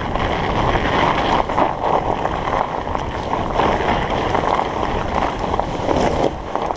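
Studded fat-bike tires (45NRTH Dillinger 5) rolling over ice and frozen trail during a ride, a steady rough noise full of small clicks and rattles, with wind buffeting the microphone.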